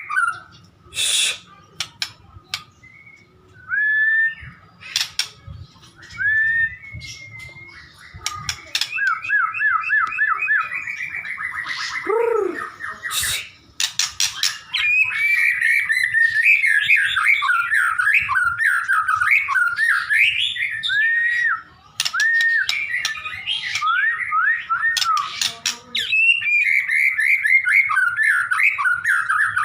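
White-rumped shama (murai batu) singing in full voice: clear whistled phrases, a fast run of repeated notes about ten seconds in, then near-continuous varied song from about fifteen seconds, with scattered sharp clicks.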